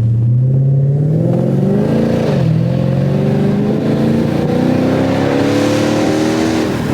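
Dodge Charger SRT8's 392 Hemi V8 accelerating hard: the engine note climbs, drops sharply on an upshift about two seconds in, then climbs again through the next gear and falls off near the end.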